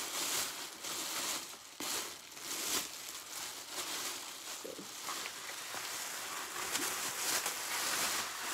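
Newspaper packing being unwrapped by hand, with continuous crinkling and crackling and occasional tearing.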